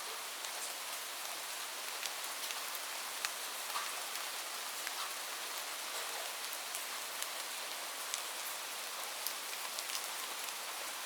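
Light rain falling steadily, a soft hiss with many scattered individual drops ticking on a surface.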